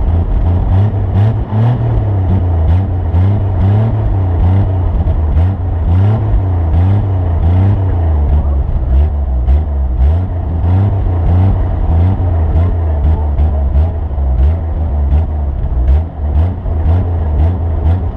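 Vehicle engine running under load, its revs rising and falling over and over, with frequent short sharp clicks or knocks throughout.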